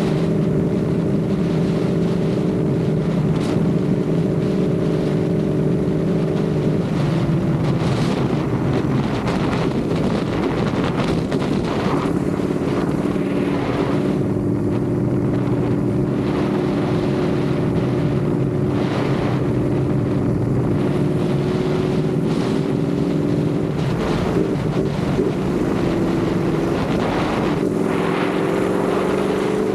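Ducati Panigale V4 motorcycle's V4 engine running while riding, mostly steady with slow rises in engine speed and a couple of throttle or gear changes, around 7 and 25 seconds in. Wind rushes over the microphone throughout.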